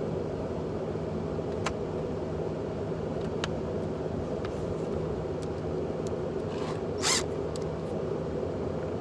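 A steady low hum, with a few light clicks and one short scraping swish about seven seconds in, from hand work on a pickup truck's door window that has come off its track.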